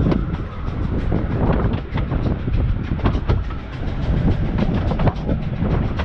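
A Bure Valley Railway 15-inch narrow-gauge train running along the line: a steady rumble of wheels on rail with frequent irregular clicks and knocks.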